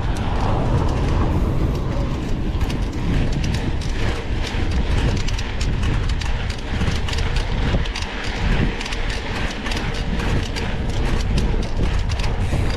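Mountain bike clattering and rattling over a rough dirt trail, with steady wind rumble on the onboard camera's microphone.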